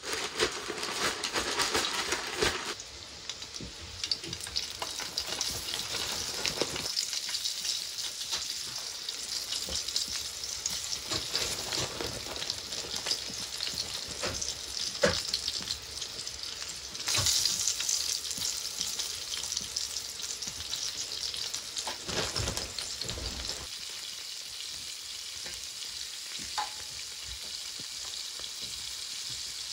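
Steaks in a cast-iron skillet and breaded burbot fillets in a frying pan sizzling steadily in hot fat, with a constant crackle and spit. It opens with a louder rustle of a plastic bag of breading being shaken, and the sizzle swells for a moment about halfway through.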